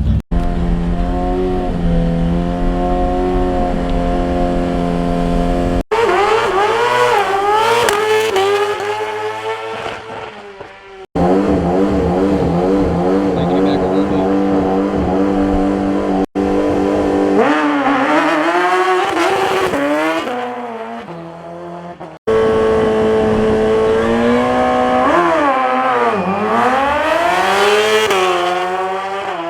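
Drag-racing car engines revving at high rpm in several short cut-together clips. Some are held at a steady pitch, others climb and drop sharply, with tire squeal mixed in.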